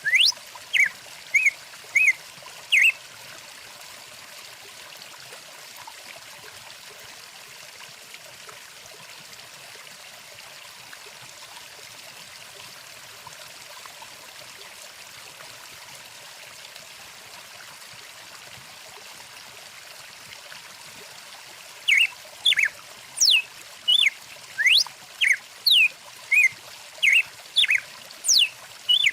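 Steady rush of a flowing stream, with a songbird calling over it: loud, quick series of sharp down-slurred whistles and short chirps in the first few seconds, then only the water for a long stretch, and the bird calling again steadily from about three-quarters of the way in.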